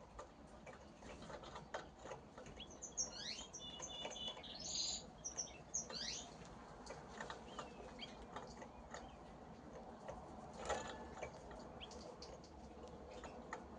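A pair of canaries in a cage giving short, scattered chirps and quick call notes rather than a full song. Light clicks and rustles of movement come in between, one a little louder about ten seconds in.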